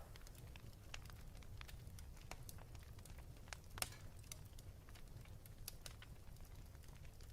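Wood fire crackling in a fireplace: faint, irregular pops and snaps over a low steady rumble, with one sharper pop about four seconds in.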